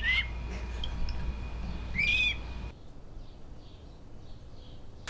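A pet talking bird whistling: two short arched whistles, one right at the start and another about two seconds in, over a low steady hum that cuts off a little before the three-second mark.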